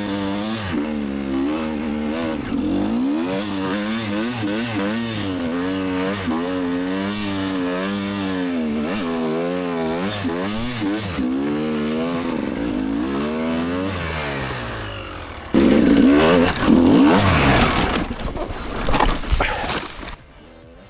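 Enduro motorcycle engine running while ridden, its pitch rising and falling every second or so as the throttle is opened and closed. About fifteen seconds in it turns suddenly much louder and rougher, revving hard for a few seconds, then drops away shortly before the end.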